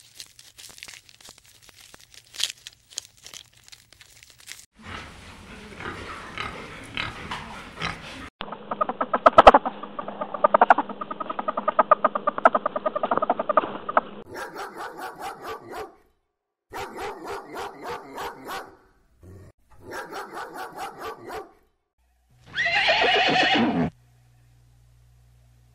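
A run of different animal sounds: faint clicks at first, then loud rapid meerkat chattering in the middle and groups of short repeated calls. Near the end a horse neighs once, loudly.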